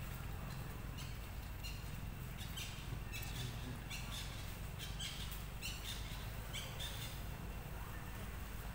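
A bird giving a series of short, high chirps, roughly one or two a second, starting about a second in and stopping around seven seconds in, over a steady low rumble.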